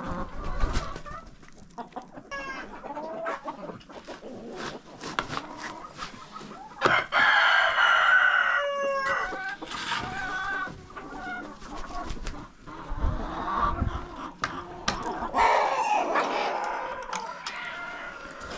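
Chickens clucking, with a rooster crowing loudly for a couple of seconds starting about seven seconds in, over scattered clicks and knocks.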